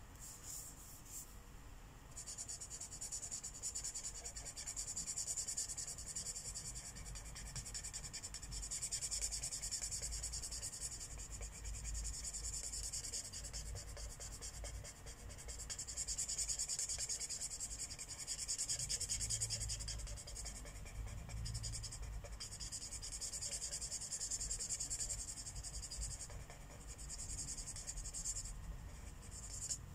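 Marker tip rubbing back and forth on paper while coloring in: long stretches of rapid scratchy strokes, broken by a few brief pauses.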